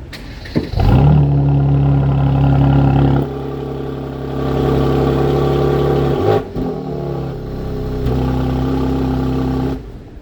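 Mercedes-AMG C43's twin-turbo V6 through a performance exhaust. It revs up sharply about half a second in, then holds at steady raised revs with a few changes in level, and drops away suddenly near the end.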